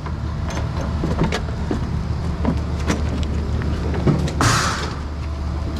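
A vehicle engine idling low and steady, with scattered clanks and knocks. A short scraping rush comes about four and a half seconds in.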